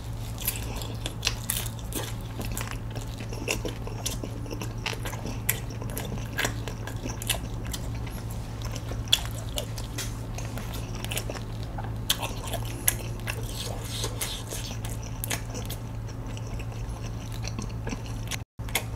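Close-up chewing and crunching of a crispy fried dumpling (tangsu mandu) in sweet-and-sour sauce: irregular crisp clicks and crunches, over a steady low hum.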